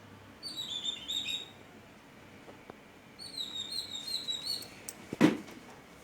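Small birds chirping in two short bursts of rapid high notes, then a single sharp knock about five seconds in.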